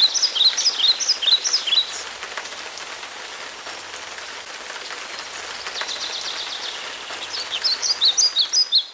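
Steady rain falling, with scattered drops ticking, while a small songbird sings quick, high chirping phrases in the first two seconds and again near the end.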